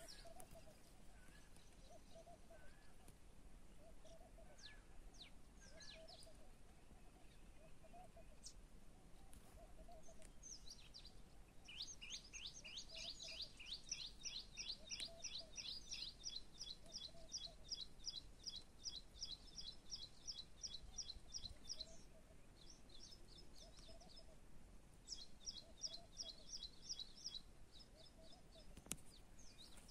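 Faint songbird trills outdoors: a long run of quick, repeated high chirps starting about twelve seconds in and lasting some ten seconds, a shorter run near the end, and a soft lower call repeating roughly once a second behind them.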